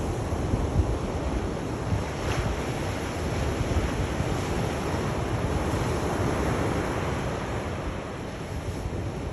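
Sea waves washing on a shore: continuous surf with a deep low rumble, easing slightly near the end.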